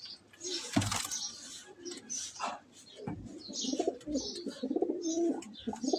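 Domestic pigeons cooing, a low warbling call that starts about halfway through and keeps going, with a sharp knock about a second in.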